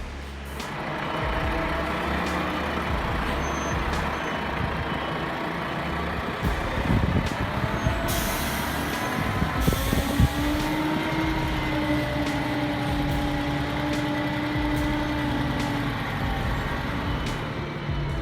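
Scania G490 truck engine running steadily under load as the truck reverses down a slope with a 32-ton load, with a short hiss of air from the brakes about eight seconds in.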